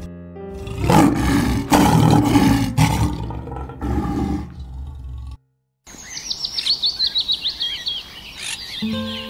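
An animal roaring loudly in several deep, rough bursts for about five seconds. After a short break a songbird sings a fast run of high, falling chirps, and background music comes in near the end.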